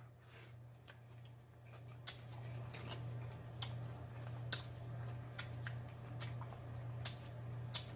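Close-miked chewing of a mouthful of mayonnaise-dressed lettuce salad: irregular wet mouth clicks and smacks, over a steady low hum.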